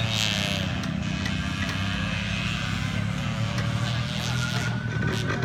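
A motor vehicle engine running steadily at an even pitch, with voices faintly mixed in.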